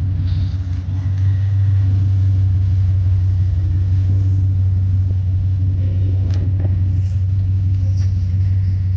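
Engine idling steadily, a loud low rumble with no change in speed.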